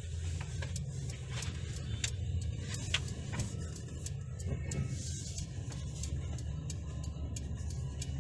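Mercedes-Benz GLA 200 under way, heard from inside the cabin: a steady low rumble of engine and road noise, with scattered small clicks and rattles.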